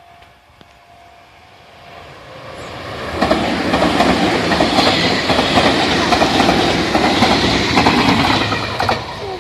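Meitetsu Panorama Super express train approaching and passing close by. The sound builds for a couple of seconds, then from about three seconds in the wheels clatter loudly and steadily over the rail joints. It eases off just before the end as the last car goes by.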